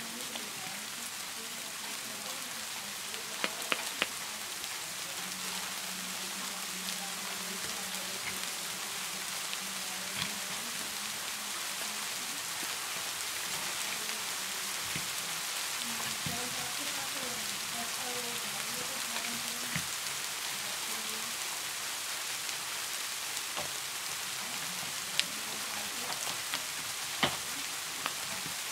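Steady rain hiss, with a few light clicks: three close together about four seconds in and two more near the end.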